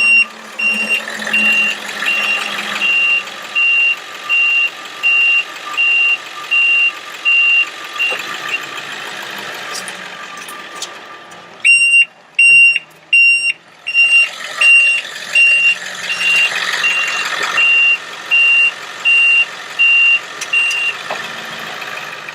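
Outrigger warning alarm on an Altec bucket truck beeping about twice a second as the outriggers are lowered, over the steady hum of the running truck. It stops for a few seconds partway through, then starts again for the other outrigger.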